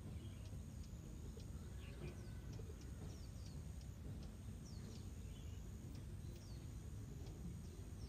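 Faint, scattered short chirps and quick sweeping calls of small birds over a low outdoor rumble, with a steady high-pitched tone throughout.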